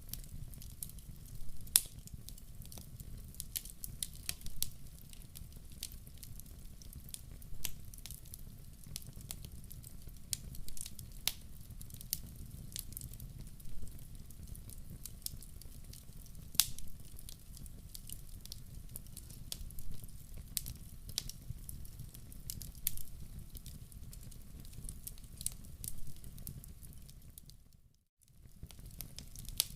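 Log fire burning in a wood-burning stove: irregular sharp crackles and pops over a low steady rumble. The sound drops out briefly near the end.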